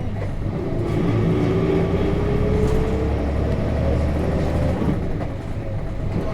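Interior ride sound of a 1998 Nissan Diesel KC-RM211GSN bus, its FE6 inline-six diesel pulling hard as the bus accelerates, the engine note rising steadily. About five seconds in, the note falls away.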